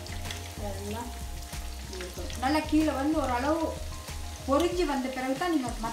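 Breaded chicken schnitzel sizzling as it fries in oil in a pan, with a spatula working in the pan. A song with a wavering sung melody plays over it and is loudest about two and a half seconds in and again near the end.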